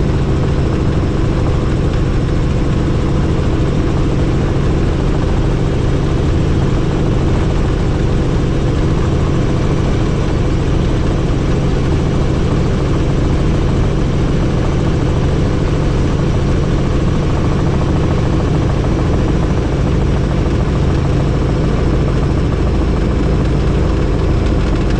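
Helicopter in steady flight: rotor and engine running with an even, unchanging drone.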